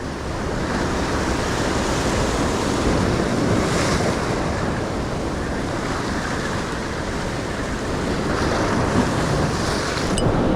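Choppy surf washing against jetty rocks, with steady wind buffeting the microphone.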